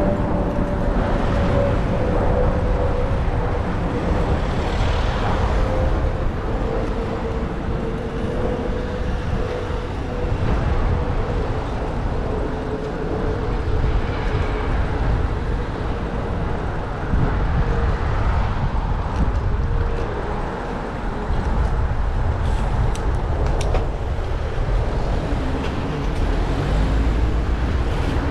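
City road traffic and rushing wind on a bicycle-mounted camera's microphone while riding. A faint steady whine slowly drops in pitch through the first half, and a few light clicks come near the end.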